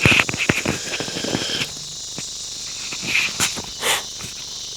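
Clip-on microphone being handled and attached to clothing: a quick run of clicks and rustles at the start, a few more scrapes a couple of seconds later. Under it, a steady high chirring of insects.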